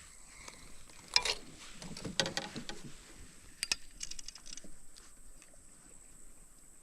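A few sharp knocks and clatters, then a quick run of clicks about four seconds in: fishing gear being handled in a small boat.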